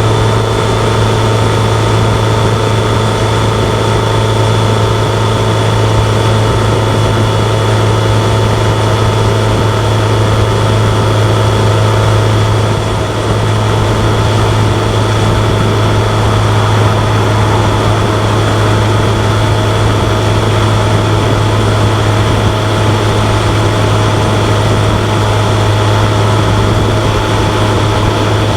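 BMW K1100LT motorcycle's inline four-cylinder engine running at a steady cruise, its pitch holding constant.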